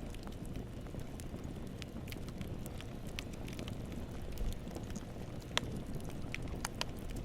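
Wood campfire burning, a steady low rumble with scattered sharp crackles and pops from the burning logs, the loudest pop about five and a half seconds in.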